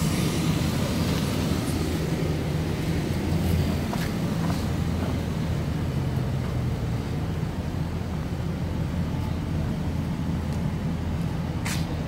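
A vehicle engine idling steadily as a low, even hum, with a couple of faint clicks.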